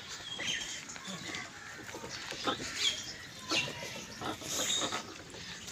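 Birds chirping in short, scattered calls, with a few soft knocks.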